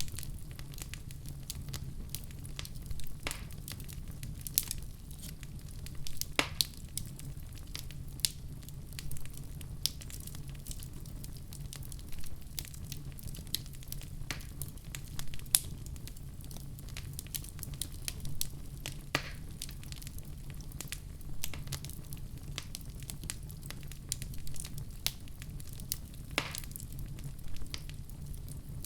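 Fireplace fire crackling and popping irregularly over a steady low rumble, with a few louder pops now and then.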